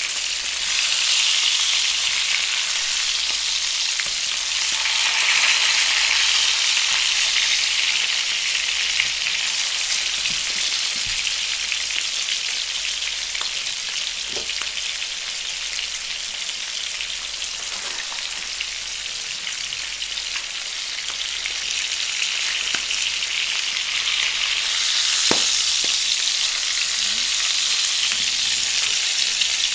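Salmon steaks sizzling steadily in butter and olive oil in a frying pan, with a few light taps of a wooden spatula against the pan.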